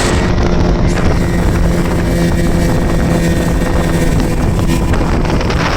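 Speedboat engine running at a steady pitch under way, with wind noise on the microphone.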